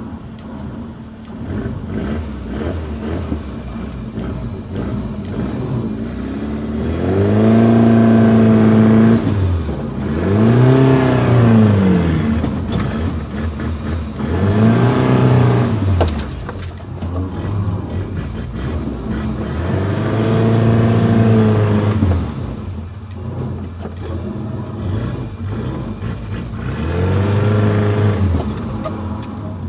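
Suzuki Jimny engine revving hard in about five rising-and-falling bursts over a steady idle, the pitch climbing and dropping with each push of the throttle while driving off-road.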